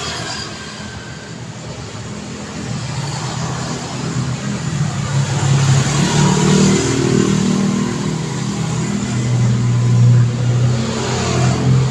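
Road traffic: motor vehicles passing close by, with engine drone and tyre noise. The sound swells as one vehicle goes by about halfway through and another near the end.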